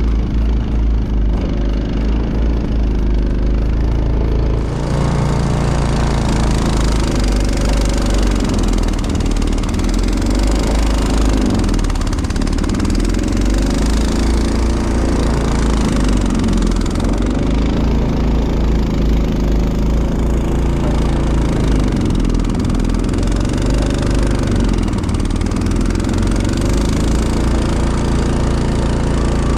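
Honda snowblower engine running loud and steady while clearing snow, its pitch rising and falling every few seconds as it takes on load. A broad rushing hiss joins about five seconds in.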